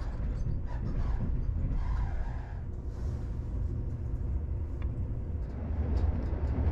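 Passenger train coach running over the rails, heard from inside: a steady low rumble, with a few faint clicks near the end.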